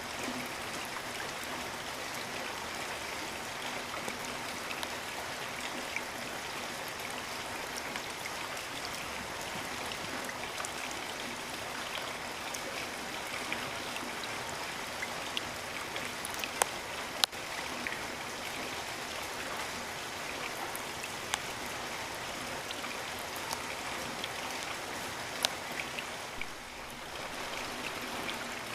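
Steady rain falling, with scattered drops ticking close by and a few louder sharp drips about halfway through and again near the end.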